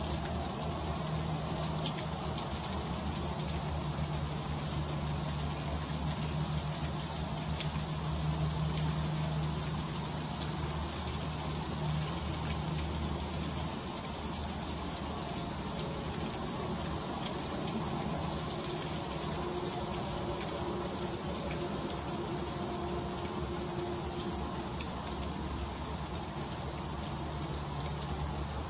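Freezing rain falling steadily: a dense hiss of drops with many small ticks as they hit icy surfaces. A low hum comes and goes underneath.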